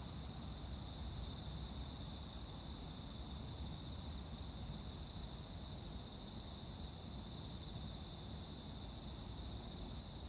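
Insects trilling steadily at dawn in one continuous high chorus, with a second, even higher pitch held above it. A low rumble sits underneath.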